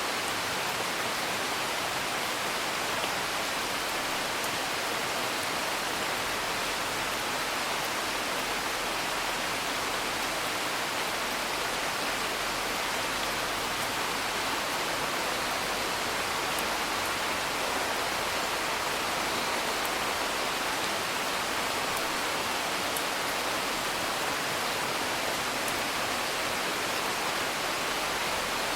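Steady, even rain hiss with no thunder, joined now and then by faint crackles from a wood fire.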